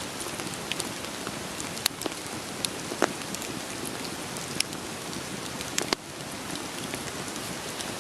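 Steady rain pattering, with a wood fire crackling over it in sharp, irregular pops a second or so apart. The loudest pops come about two, three and almost six seconds in.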